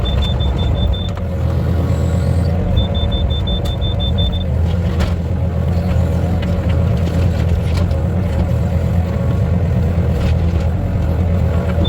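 Excavator diesel engine running steadily with a low rumble. A rapid, high-pitched pulsing beep sounds twice: briefly at the start and again a few seconds in.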